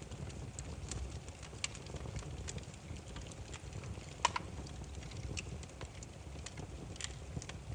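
Burning firewood crackling: irregular sharp pops and snaps over a steady low rumble of flame, with one louder pop about four seconds in.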